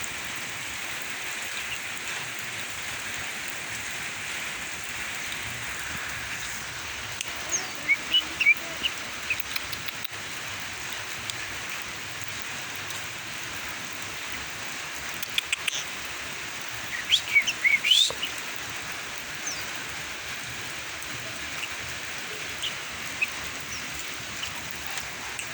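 Sooty-headed bulbul (kutilang) chirping in short scattered bursts, about eight seconds in, around fifteen seconds, and loudest in a quick cluster near the eighteen-second mark, over a steady hiss.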